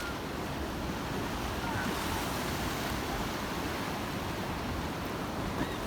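Black Sea waves washing onto the shore: a steady rushing noise with no break.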